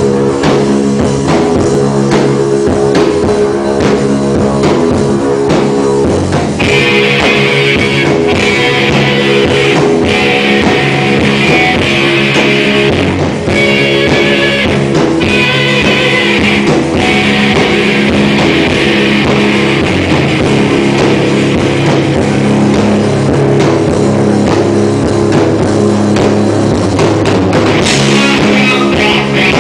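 Rock band playing live, with guitars and a drum kit keeping a steady beat. The sound grows fuller and brighter about six seconds in.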